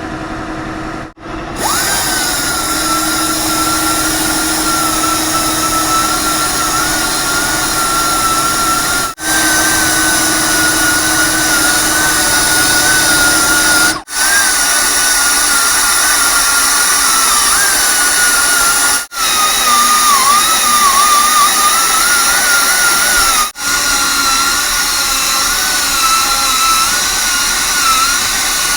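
High-speed handheld power tool whining steadily while cleaning the exhaust port gasket surface on a diesel cylinder head, its pitch sagging and wavering as it is pressed into the metal. The sound breaks off for an instant several times.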